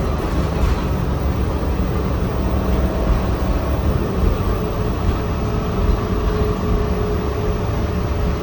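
City bus running, heard from inside: steady engine and road rumble, with a steady whine coming in about three seconds in.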